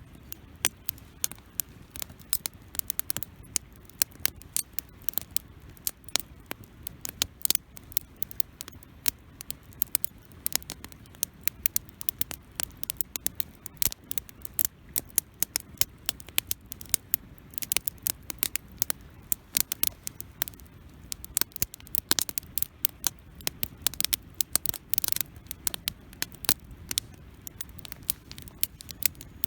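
Wood campfire crackling: many irregular sharp pops and snaps over a low steady rush of flame, with a short hiss about 25 seconds in.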